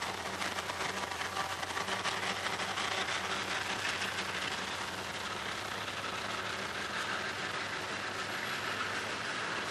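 CSX freight train passing: a locomotive goes by, then freight cars roll past with a steady rush of wheel-on-rail noise.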